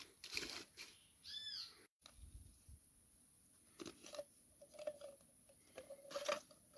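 Faint scattered clicks and crunches, with a short bird call of a few arched notes about a second and a half in.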